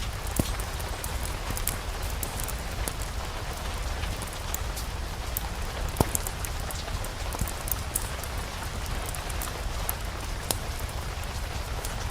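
Steady rain with a low rumble beneath, mixed with the scattered crackles and pops of a fireplace fire; one louder pop comes about six seconds in.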